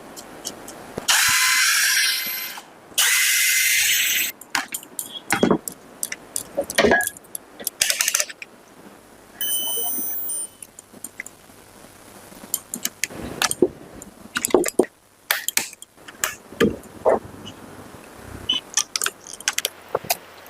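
Clicks, knocks and rattles of tools and hammer drill parts being handled during a repair. About a second in come two loud hissing bursts, each a little over a second long, and around the middle a brief sound with several steady tones.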